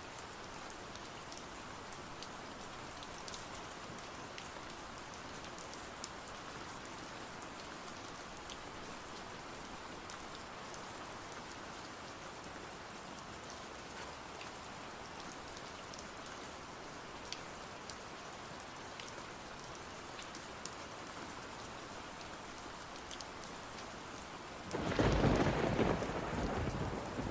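Steady rain falling, with scattered light ticks of drops. Near the end a sudden loud clap of thunder breaks in and rumbles on.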